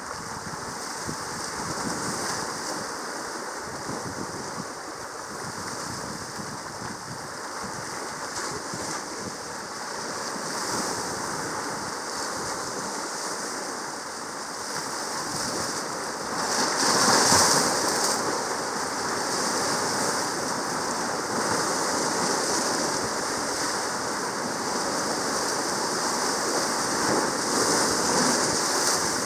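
Sea water washing, with waves swelling and receding; the loudest surge comes about seventeen seconds in.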